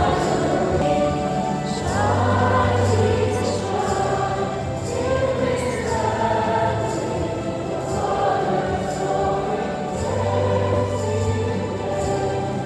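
A church choir sings a hymn with instrumental accompaniment that holds sustained bass notes. This is the closing hymn after the dismissal at the end of Mass.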